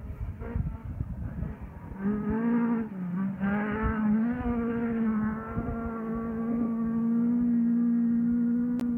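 Rally car engine heard across open country, its note rising and dipping with the throttle for a couple of seconds, then held at steady revs. It cuts off suddenly at the end.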